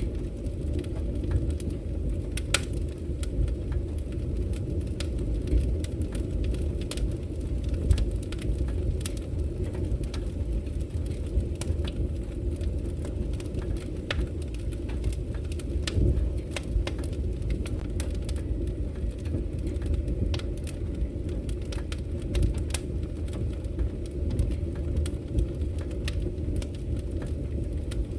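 Wood fire crackling in a fireplace: irregular sharp pops and snaps over a steady low noise.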